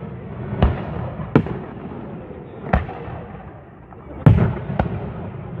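Fireworks display, with aerial shells bursting in five sharp bangs at uneven intervals; the loudest comes about four seconds in. A steady low rumble runs underneath.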